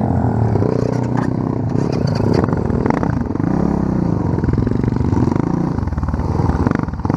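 Off-road motorcycle engine revving up and down while riding over rough, sandy ground, with scattered knocks and rattles.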